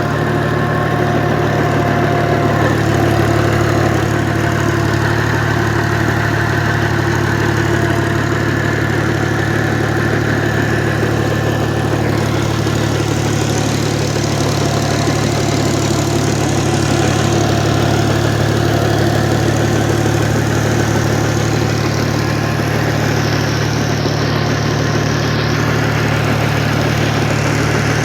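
Tractor engine running steadily at an unchanging speed, a continuous low drone.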